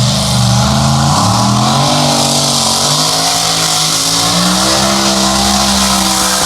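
Engine of a pulling truck or tractor running hard under load during a pull, its pitch wavering and climbing, over a loud steady hiss.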